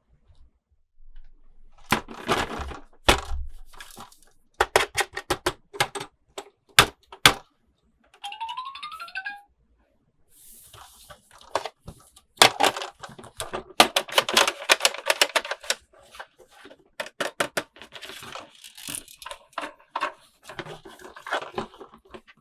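Plastic toy packaging being unwrapped and handled: crackling, tearing and sharp clicks and taps in quick runs, with a short rising tone a little past the eight-second mark.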